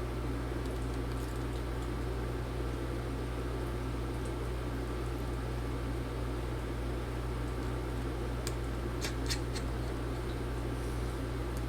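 Steady background hum of a workshop room, with a few light clicks about eight and a half to nine and a half seconds in.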